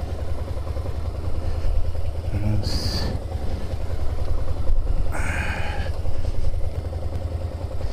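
Suzuki SVF650 Gladius's V-twin engine running at low speed, a steady low rumble heard through a helmet-mounted microphone.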